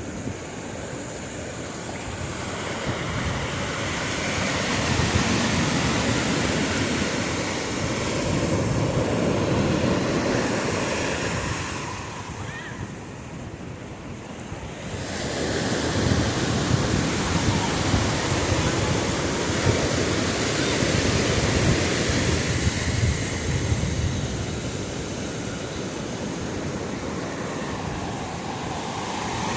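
Sea waves breaking and washing on a shore, swelling in long surges, with a lull about twelve seconds in.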